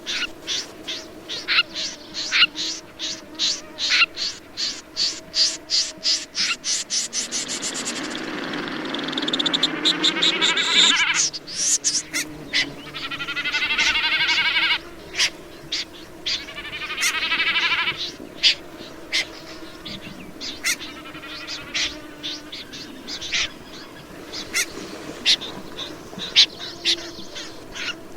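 Calls of the bird known in Vietnamese as the rẽ run. A series of short, sharp notes quickens into a rapid run, then gives way to long rasping trills, three of them, before single notes resume at a slower pace.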